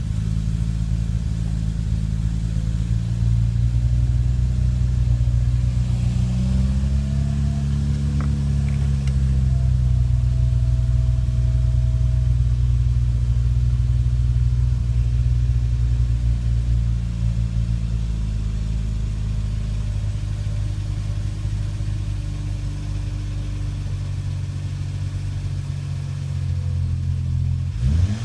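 BMW 335i's N54 twin-turbo straight-six running, with a ticking that gets louder with revs and does not stop once warm; the owner says it is not typical direct-injection injector noise, as it began after a JB4 tune firmware update. The engine speed rises and settles a little way in, and rises again sharply at the end.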